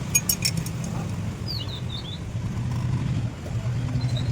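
Steady low engine hum, with a quick cluster of sharp clicks at the start and a few bird chirps about one and a half seconds in.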